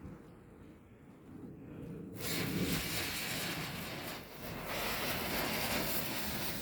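Firework, such as a fountain, spraying sparks with a loud steady hiss that starts about two seconds in and cuts off abruptly at the end.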